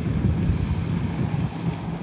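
Wind buffeting the microphone in uneven gusts, with a steady low hum underneath.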